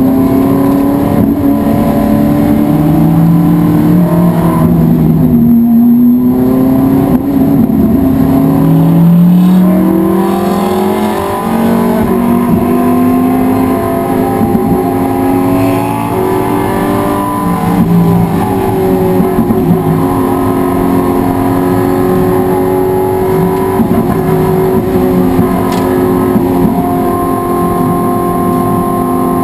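Race car engine running hard: its pitch climbs and drops back again and again as the car accelerates, shifts gear and slows.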